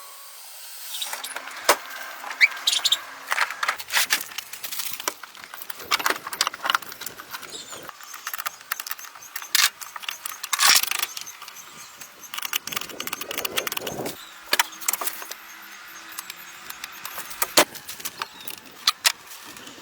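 Irregular clatter of clicks, knocks and scrapes, with several sharper, louder knocks scattered through it.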